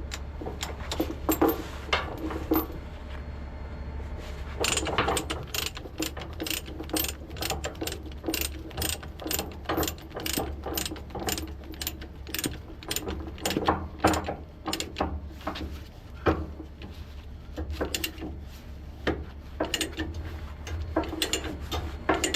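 Ratchet chain binder being cranked to tension a tie-down chain: the pawl clicks in quick, even strokes, several a second, with a short pause a few seconds in before a long steady run. A steady low hum lies underneath.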